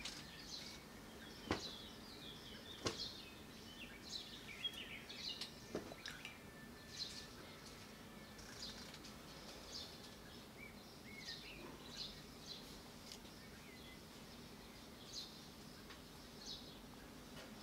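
Small birds chirping faintly and repeatedly in the background, with three light knocks about a second and a half, three and six seconds in.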